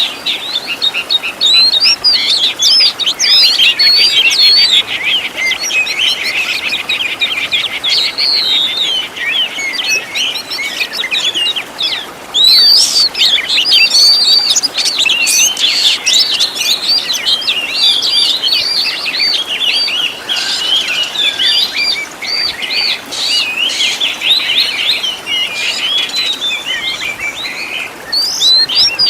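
Oriental magpie-robin (kacer) singing continuously: a loud, rapid, ever-changing song of whistles, fast trills and bursts of notes, in the mimicry-filled style of a training song.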